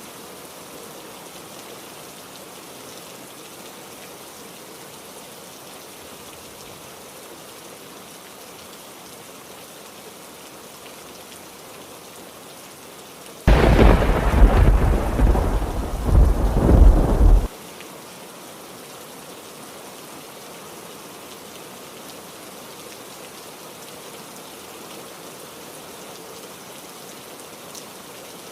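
Steady heavy rain, with a loud thunderclap about halfway through. The thunder starts suddenly, rumbles for about four seconds with two swells, and cuts off abruptly.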